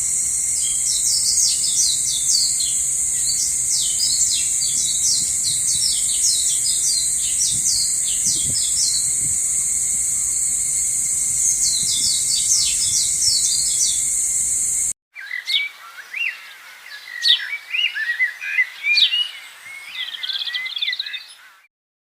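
Songbirds chirping in quick runs over a steady high-pitched hiss. About fifteen seconds in the sound cuts abruptly to a different recording of clearer, more varied birdsong without the hiss, which stops just before the end.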